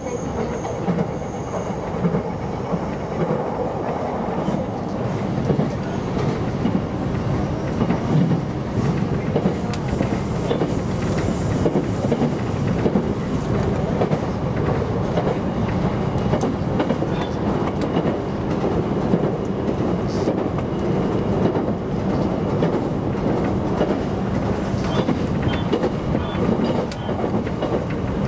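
Electric commuter train running along the track, heard from inside the front car: a steady rumble of wheels on rails.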